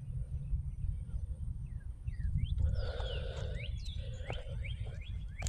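Birds chirping and calling from about two seconds in, with a louder, rougher call near the middle, over a steady low rumble.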